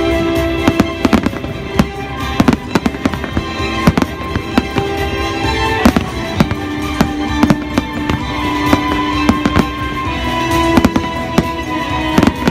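Aerial fireworks going off in a rapid, irregular string of sharp bangs, several close together at times, over music played for the show.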